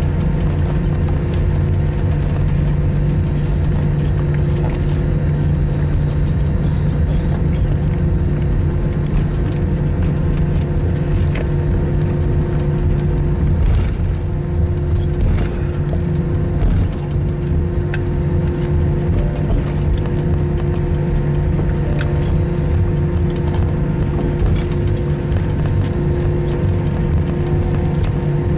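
Steady cabin drone of an Airbus A321 on the ground after landing, with a constant whine over a low hum and a few light clicks scattered through it.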